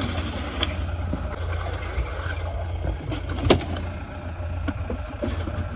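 A vehicle engine running with a steady low rumble, with a sharper knock about three and a half seconds in.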